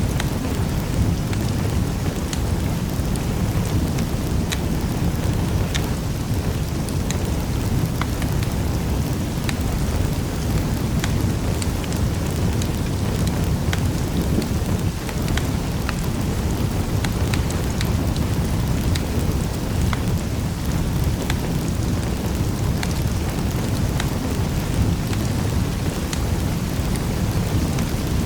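Wood fire crackling in a fireplace: a steady low rumble of the flames with scattered sharp pops and snaps from the burning wood.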